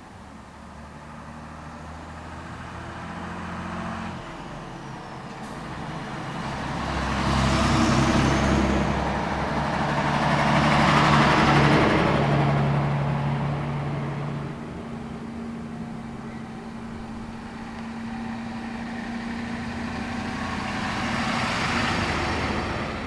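Several heavy fire engines drive past one after another, their diesel engines running. The sound swells as each one comes close and fades as it moves away; the loudest passes are about eight and about eleven seconds in, and another comes near the end.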